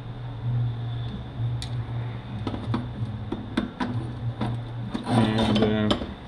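Sharp metallic clicks and taps of transmission parts being handled on the bench, about a dozen spread over a few seconds, over a steady low hum. Near the end a brief, louder pitched sound rises over them.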